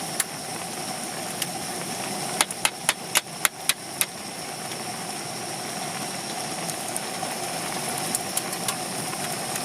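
Portable gas stove burner running at a high, steady flame with a rushing sound, its gas canister tipped steeply, which the cook found brings up the flame. A quick run of about six sharp clicks comes between about two and a half and four seconds in.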